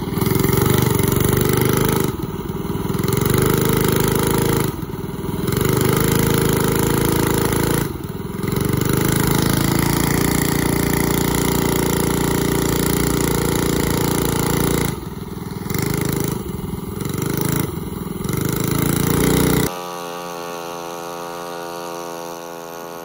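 A 212cc go-kart's small single-cylinder engine running hard under heavy load while towing a pickup truck by rope, easing off briefly about six times before picking up again; the kart's clutch is slipping and overheating to the point of smoking. About 20 seconds in the engine sound cuts off and a quieter, different steady sound takes over.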